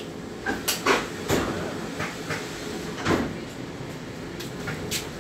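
Passenger train running into a station, a steady rumble from the inside of the carriage broken by several sharp knocks and clatters, most of them in the first three seconds.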